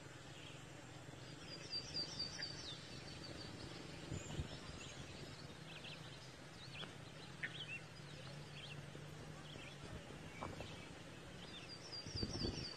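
Outdoor ambience with birds singing: a rapid run of high, falling notes a second or two in and again at the end, with scattered short chirps over a steady low hum. A brief low thumping comes near the end.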